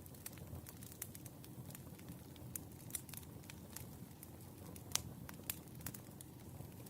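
Firewood burning: a low, steady rumble of flame with scattered crackles and pops, the sharpest pop about five seconds in.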